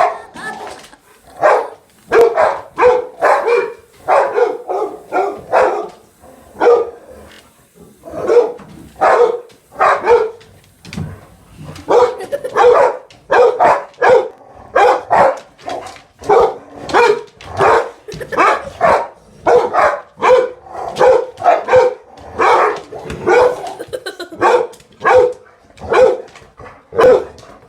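A dog barking over and over, short barks at about one or two a second with brief pauses.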